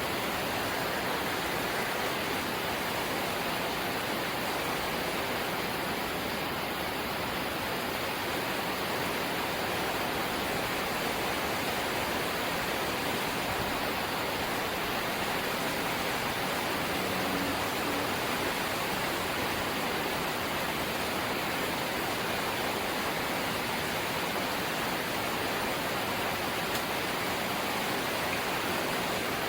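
Rain falling on a corrugated zinc roof, a dense, steady hiss that does not let up.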